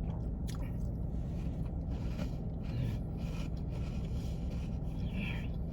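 Steady low hum of a car idling, with faint scraping and rustling now and then.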